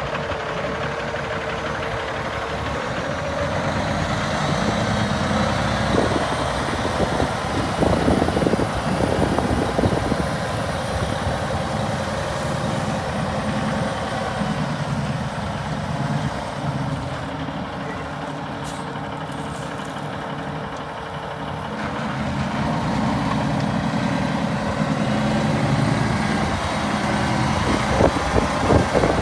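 Diesel engine of a 2010 Peterbilt 387 semi truck running steadily, its level swelling and easing a little and growing fuller and louder near the end.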